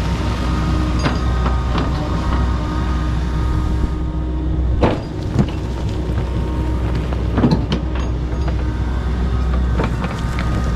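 Kobelco SK85 MSR excavator's diesel engine running steadily under load while clearing brush, with a few sharp cracks of wood snapping about five seconds in and again around seven and a half seconds.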